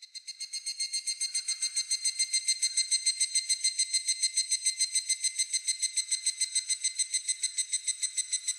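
Higurashi (evening cicada) calling: a rapid, even run of high ringing pulses, about eight a second, that swells over the first two seconds and then holds steady.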